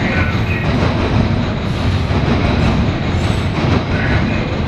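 CSX coal train's hopper cars rolling past: a steady rumble and clatter of steel wheels on rail, with brief higher wheel squeals now and then.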